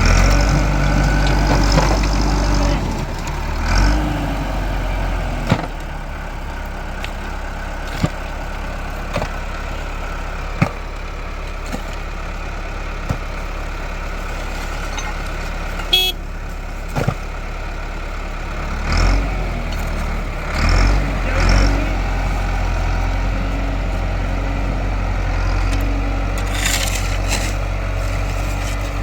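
Tractor engine running steadily, with a few short swells and scattered sharp knocks.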